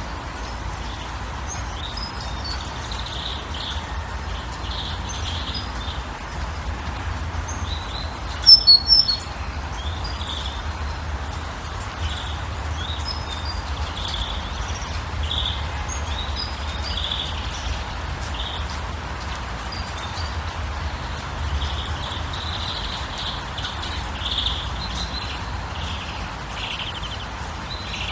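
Birds chirping throughout over a steady low rumble. About eight and a half seconds in comes a quick cluster of three or four loud, sharp, high calls.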